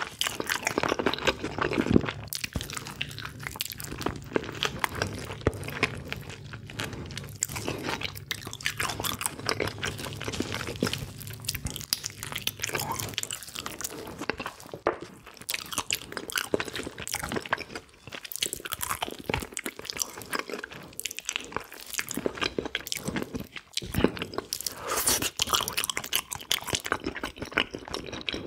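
Close-miked eating sounds: irregular chewing, biting and wet mouth smacks, most likely spicy braised pig's feet (jokbal). A low steady hum runs underneath for roughly the first half.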